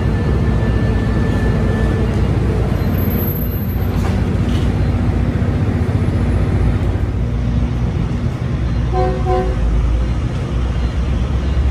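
Tri-Rail commuter train drawing into the station and slowing to a stand, with the steady low rumble of its BL36PH diesel locomotive's engine and the running gear. A thin high brake squeal fades in the first two seconds, and a brief double tone sounds about nine seconds in.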